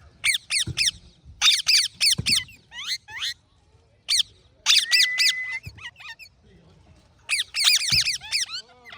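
Parrots calling: short, loud calls in quick runs of two or three, repeated again and again, with one steady whistled note about halfway through.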